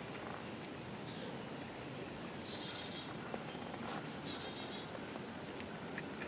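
A songbird calling three times, each call a quick high falling slur that runs into a short trill, over a steady hiss of outdoor background noise.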